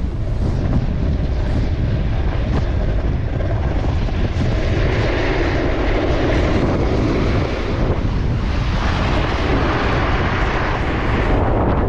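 Very strong wind buffeting the microphone during a snowboard run: a loud, steady roar, with a rushing hiss that builds about four seconds in and drops away near the end.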